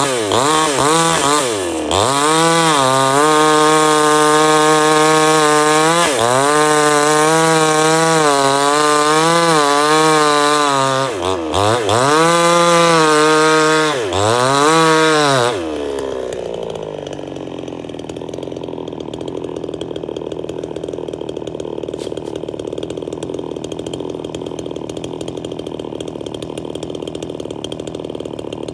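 Chainsaw engine running at high revs with its pitch wavering up and down, dipping briefly three times. About halfway through it falls back to a steady idle.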